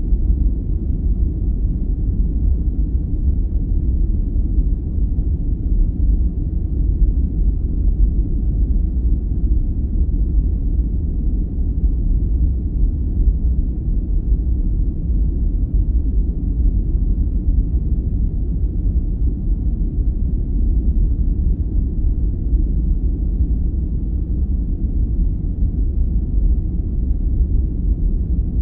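Steady, deep noise of a sleep-aid noise track, its weight in the low end with no high hiss, unchanging throughout.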